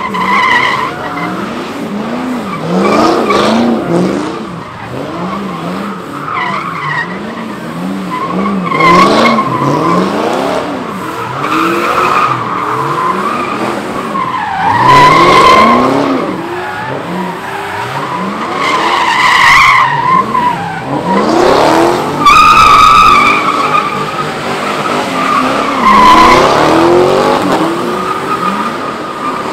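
Cars doing donuts at a street sideshow. Engines rev up and down over and over while the tires squeal loudly, the squeal swelling several times.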